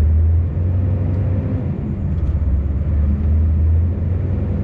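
Scania V8 truck engine running steadily, a deep even hum heard from inside the cab.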